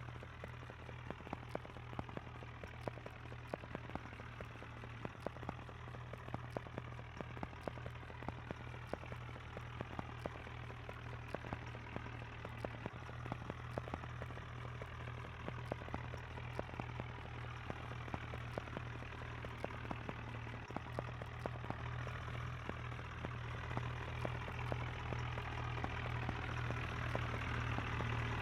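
Tractor engine running steadily with rapid clicking, growing gradually louder over the last third.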